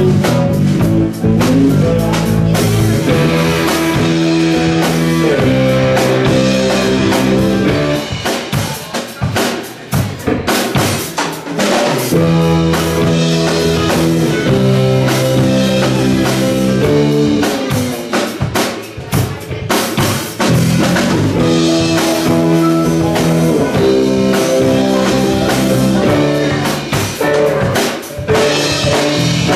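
Live rock band playing an instrumental passage: drum kit with rimshots keeping the beat under guitar, no singing.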